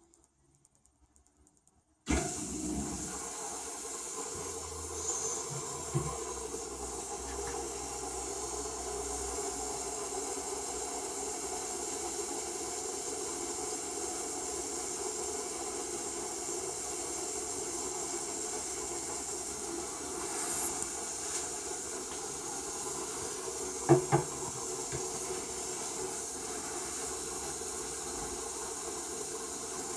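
Devanti benchtop dishwasher starting its wash about two seconds in, then a steady hiss of water spraying inside the tub. A low hum comes under it for the first several seconds, and there is a short double knock about three-quarters of the way through.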